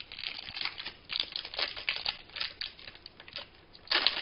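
Crinkling and tearing of a plastic trading-card pack wrapper as it is opened by hand, with irregular crackles and a louder burst near the end.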